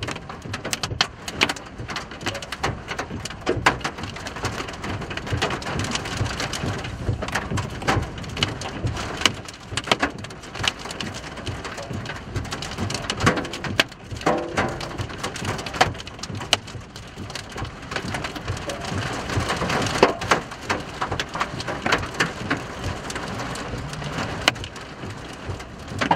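Rain hitting a vehicle's windshield and roof, heard from inside the cab: a steady wash of noise with many sharp taps of drops striking.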